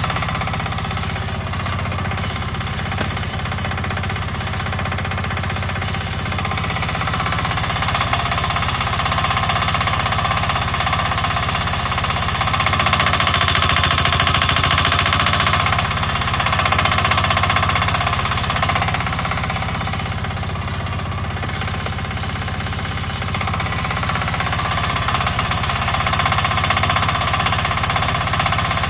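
Small diesel engine of a 1-ton mini excavator running steadily, with a fast, even pulsing clatter.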